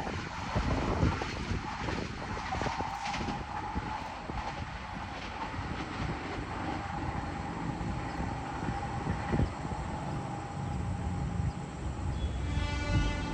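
Vande Bharat Express train running, a steady rumble with a constant whine through it; a higher pitched note comes in near the end.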